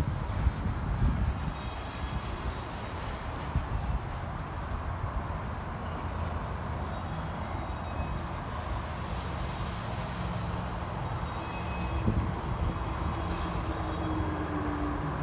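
Train rolling past: a steady rumble of wheels on rail, with high-pitched wheel squeal that comes and goes several times.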